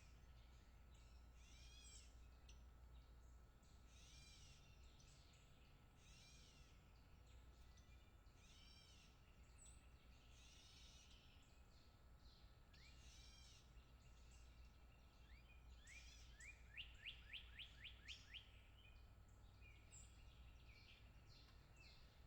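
Faint birdsong: short arched notes repeated every second or two, and about sixteen seconds in a quick run of about eight rising notes, over a steady low rumble.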